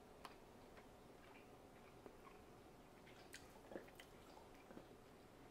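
Near silence with faint, scattered clicks and mouth sounds of a person chewing food.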